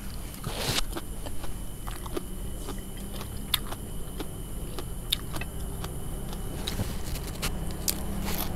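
Close-up eating sounds of crisp fried spring rolls being bitten and chewed with fresh leaves: scattered short crunches and mouth clicks. A steady low hum runs underneath.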